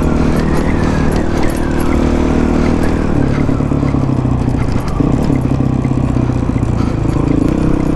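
Honda CRF450 dirt bike's single-cylinder four-stroke engine running under throttle while riding a rocky trail, its pitch rising and falling with the throttle. Light clicks and rattles are scattered over the engine sound.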